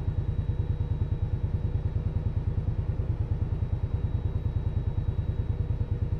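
Indian Scout Bobber's V-twin engine idling with a steady, even pulse.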